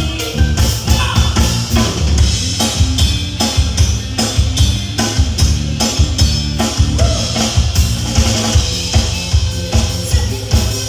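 Live band playing an instrumental passage: drum kit with bass drum and snare keeping a steady beat over a bass line.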